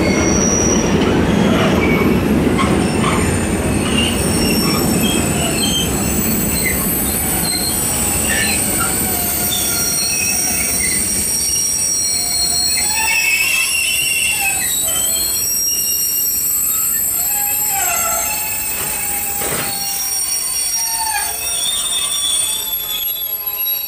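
Long intermodal freight train of swap-body and container wagons rolling past, its wheels squealing in many short, shifting tones over a rumble that is heavy at first and thins out in the second half.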